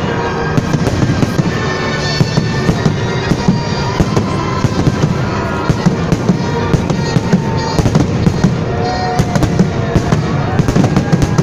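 Fireworks salute: a rapid, continuous barrage of exploding shells, many sharp bangs a second over a steady rumble.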